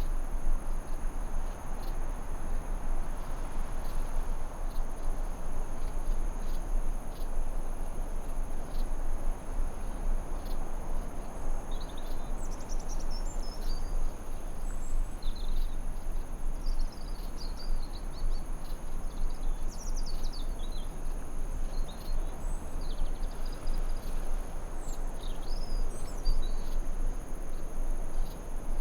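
Forest ambience: a steady chorus of insects, crickets trilling at two high pitches, over an even low hiss. Short bird chirps and twitters come in about halfway through and run until near the end.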